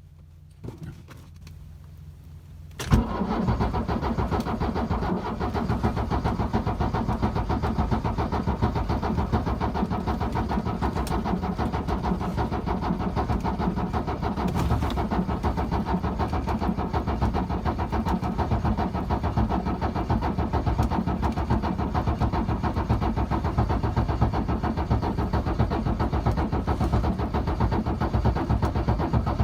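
Diesel engine being started in extreme cold after glow plug preheating. About three seconds in, the starter and engine come in abruptly, and the engine sound then carries on steadily.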